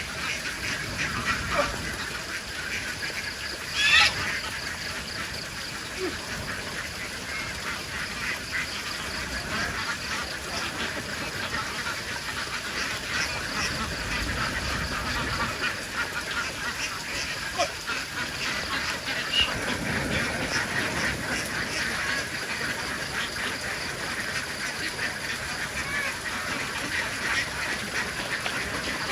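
A large flock of domestic ducks quacking continuously, many overlapping calls forming a dense chatter, with one brief louder sound about four seconds in.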